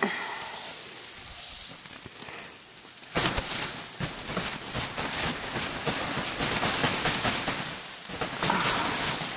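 Heavy wet snow falling, making a dense, irregular crackling patter that gets louder about three seconds in.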